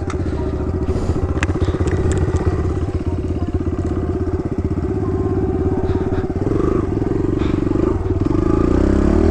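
Kawasaki KLX110 dirt bike's small single-cylinder four-stroke engine running steadily under throttle on a trail, its pitch wavering up and down from about six seconds in as the throttle changes. A few light clicks about a second in.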